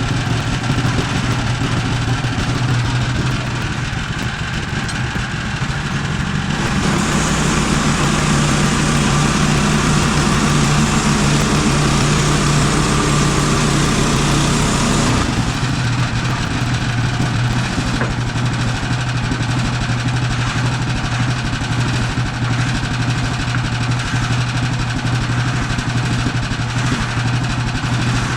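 Portable sawmill's gasoline engine running steadily. About seven seconds in, a louder, brighter hiss joins the engine, and it drops away about eight seconds later.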